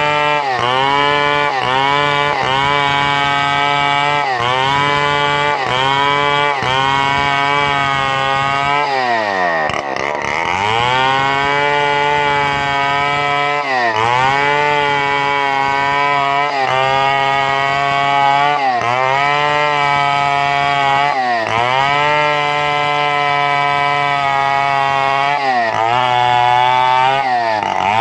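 Two-stroke chainsaw running at full throttle while cutting timber, its pitch sagging briefly about once a second as the chain bogs in the wood. About ten seconds in, the revs drop almost to idle and then climb back up.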